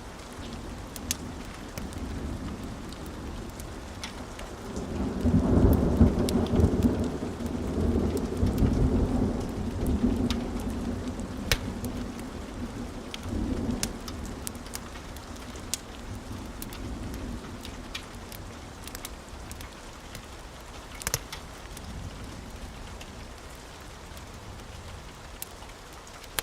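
Steady rain with a long roll of thunder that swells about five seconds in and rumbles away over the next several seconds. Scattered sharp crackles of a wood fire pop through the rain.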